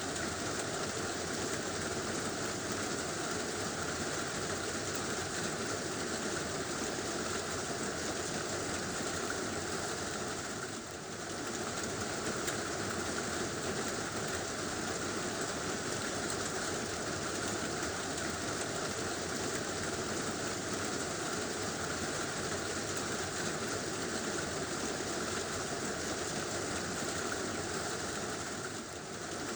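Heavy rain falling steadily on a tin roof, a dense, even drumming patter. The level dips briefly about eleven seconds in and again near the end.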